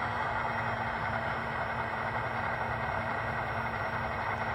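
Sound system of a Broadway Limited Imports model diesel locomotive playing a steady diesel engine idle through its small onboard speaker.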